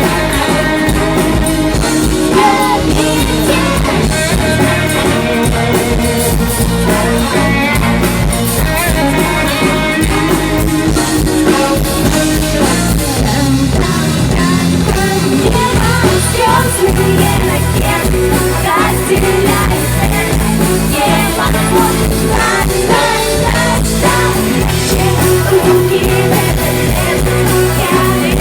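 Live pop-rock song played by a band with guitar and drums, a woman singing lead over it.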